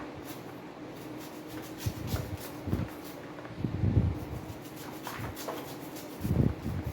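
Knife cutting kernels off ears of fresh corn, with a few irregular dull knocks and light scraping. A steady low hum runs underneath.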